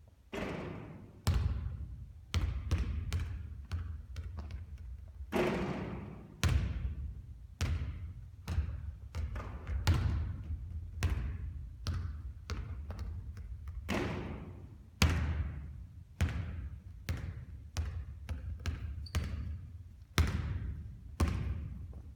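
A basketball bouncing repeatedly on a hard court, sharp irregular impacts about one or two a second, each trailing off in reverberation.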